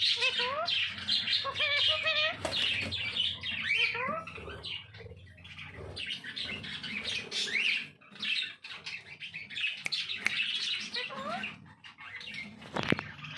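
Cage birds chirping and squawking together, with many quick rising and falling calls overlapping, and a sharp knock near the end.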